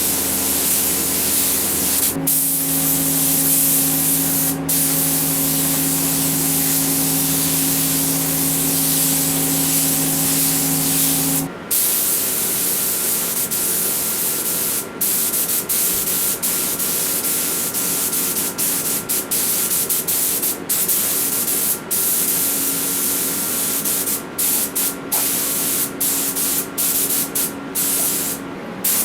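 Paint being sprayed onto body parts: a loud spray hiss in long passes, broken by brief stops that come more often near the end. A steady low hum runs underneath for the first part and stops a little before halfway.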